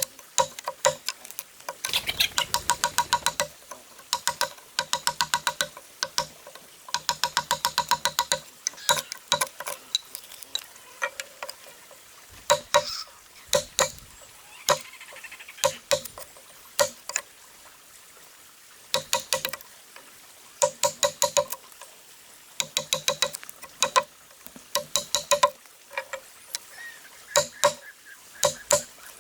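Repeated sharp taps and knocks, each with a brief ringing tone. They come in quick runs of several strikes a second, with scattered single strikes between, like hand tools striking while working wood.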